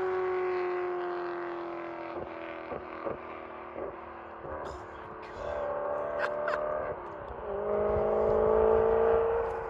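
BMW E92 M3's 4.0-litre V8, with an X-pipe and modified stock mufflers, heard driving away after a high-speed flyby, its note slowly fading and dropping in pitch. About two-thirds of the way in, the engine note climbs again and grows louder as it accelerates.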